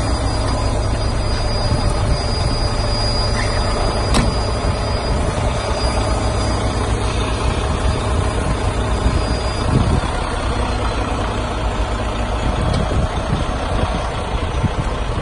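Truck engine idling steadily, with a sharp click about four seconds in.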